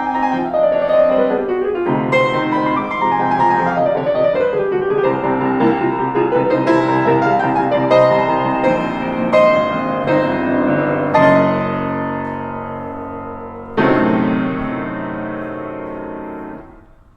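Solo piano playing quick runs of notes, then two loud chords about 11 and 14 seconds in, each left to ring and die away.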